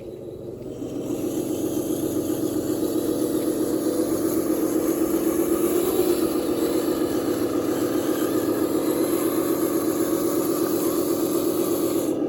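Radio-controlled construction machine running steadily, its motor or engine sound unit giving a fast, even pulse; it rises about a second in, holds level and drops off at the end.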